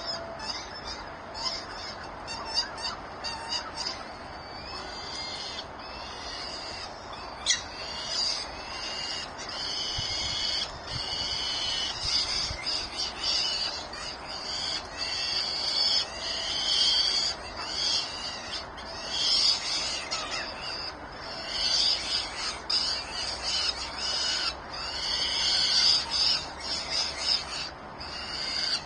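Nestling birds in the nest making a dense, continuous chorus of high-pitched calls that swell and grow louder in waves. A single sharp click sounds about seven seconds in.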